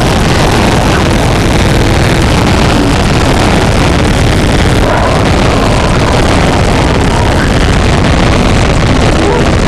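Harsh noise music in the power electronics style: a loud, unbroken wall of distorted static and rumble, with faint pitched fragments buried in it.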